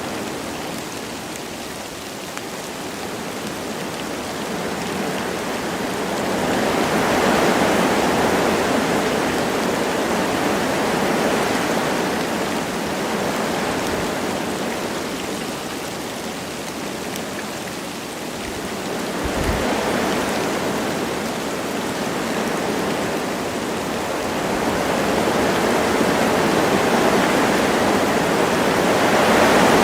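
Wind gusting through forest trees with light rain: a steady rushing that swells and eases every several seconds.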